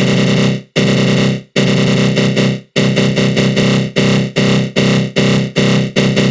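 Synthesized 'attack growl' sound effect: a harsh, gritty synth tone swept by a flanger, repeating in loud bursts that cut off sharply. Three longer bursts come first, then the pulses quicken to about two or three a second.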